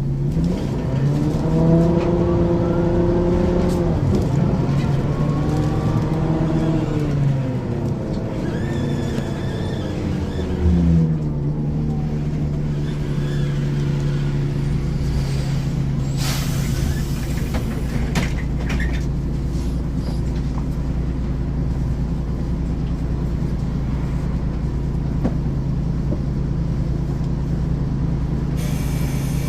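Engine of a 1994 Ikarus 435 articulated bus with a ZF automatic gearbox pulling away, the revs rising, dropping at a gear change, then rising again before falling as the bus slows. From about ten seconds in it idles steadily, with a short hiss a few seconds later.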